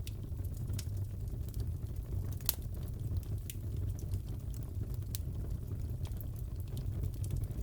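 Crackling fireplace: a steady low rumble of burning wood with scattered sharp pops and crackles, one louder pop about two and a half seconds in.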